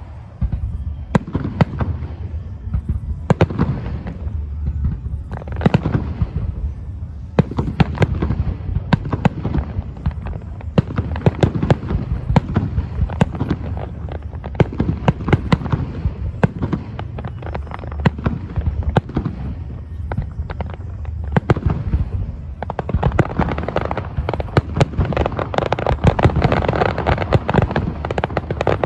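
Aerial fireworks display: shells bursting in quick, irregular succession over a continuous low rumble of booms. From a little past the middle to the end, a dense crackling fills in between the bangs.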